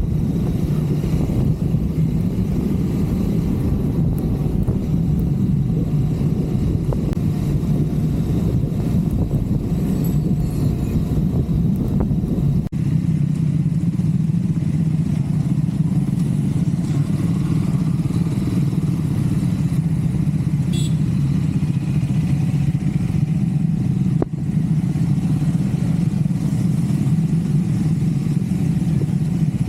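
Triumph Scrambler 400 X's single-cylinder engine running at a steady pace while riding.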